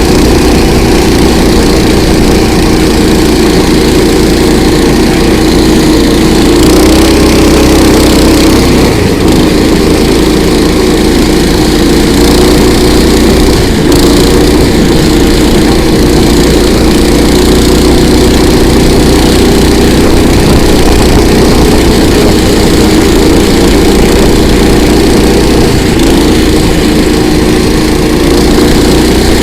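Small engine of a KOiRA motorized towing unit running steadily under load, its pitch drifting slightly up and down as it drives.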